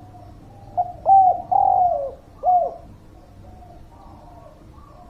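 Spotted dove cooing: one loud phrase of about four notes about a second in, the longest slurring downward, with fainter coos from other doves underneath. A lively calling bird, used as a lure call to set quiet doves calling.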